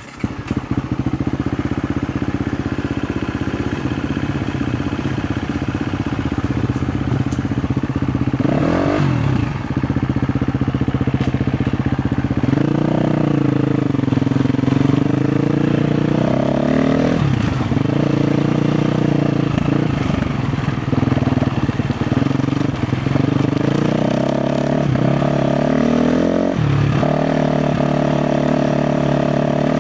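KTM 350 XCF's single-cylinder four-stroke engine starting up and settling into a steady run, then revving up and down with the throttle, with several short drops in revs, as the dirt bike is ridden.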